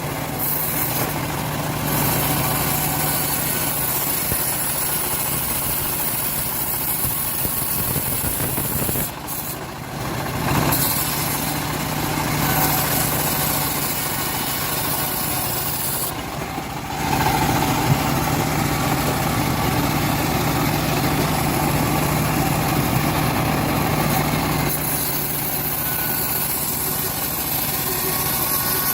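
Engine of a homemade bandsaw mill running steadily, with two short dips in level about a third and halfway through.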